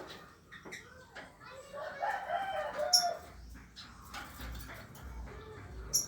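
Young lovebird chick practising its chattering song: a wavering call about two seconds in, with a few short, sharp high chirps.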